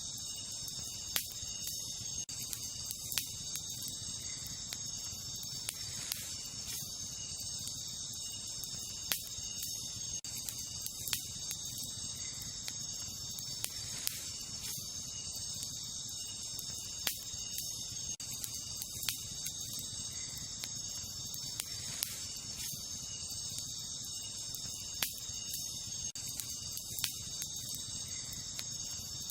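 Wood campfire crackling, with sharp pops every second or two, over a steady high chorus of night insects.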